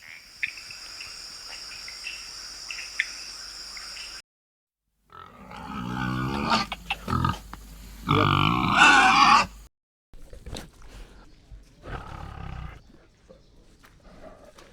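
Animal calls in a string of short separate clips: a steady high hiss with a few clicks, then loud grunting, roar-like calls, then fainter calls.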